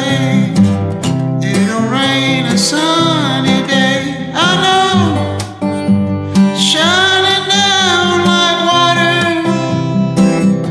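A man singing over an acoustic guitar strummed backing track, karaoke-style: an acoustic version of a country-rock song.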